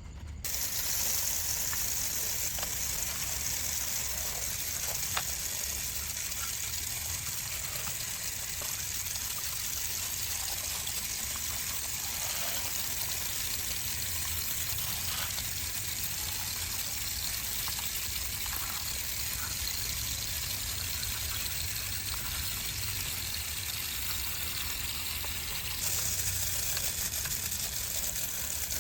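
Water spraying in a steady hiss, rinsing a muddy die-cast model truck. It starts abruptly and grows louder near the end.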